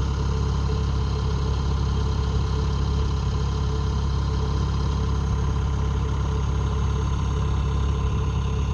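Kubota rice combine harvester's diesel engine running at a steady speed with a constant low hum.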